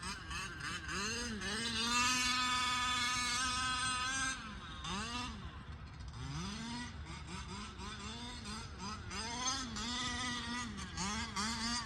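Losi radio-controlled motorcycle's electric motor whining as it is throttled, the pitch rising and falling again and again, held steady for about two seconds early on.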